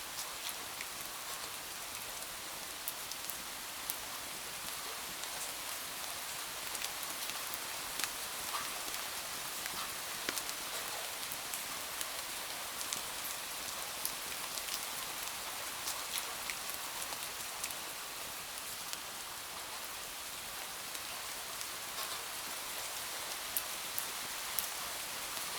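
Steady rain, an even hiss with scattered sharp ticks and pops throughout.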